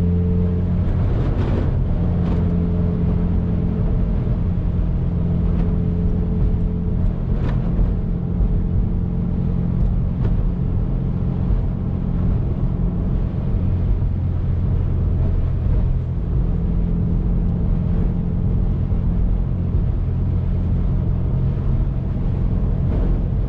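2019 Subaru WRX's turbocharged flat-four engine running at a steady cruise, with road noise and a few short knocks from the road.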